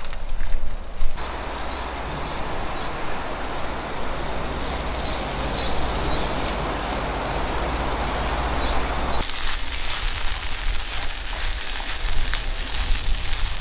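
Steady outdoor background hiss with faint high bird chirps. About nine seconds in it changes to rice sizzling on high heat in a cast-iron skillet, with a spatula scraping and stirring it as the liquid cooks off.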